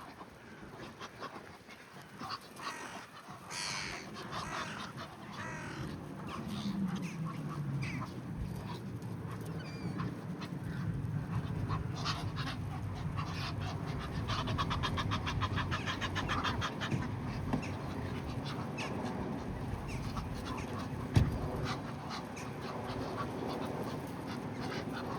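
Flock of waterfowl, Egyptian geese and ducks, calling with a mix of quacks and harsh honks, including a fast run of repeated calls in the middle. A low steady hum runs underneath from about six seconds in, and there is one sharp knock about twenty-one seconds in.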